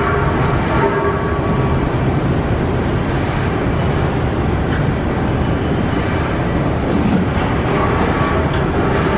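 Haas SL-40 CNC turning center running, a steady loud mechanical noise with a few faint ticks.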